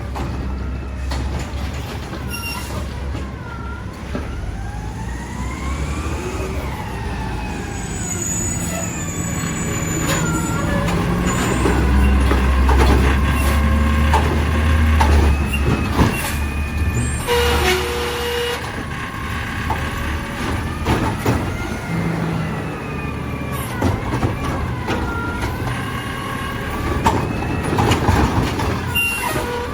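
A Mack LR garbage truck's diesel engine running and revving up for a few seconds near the middle, with a whine that rises and falls in pitch, and a short burst of hiss a little past halfway.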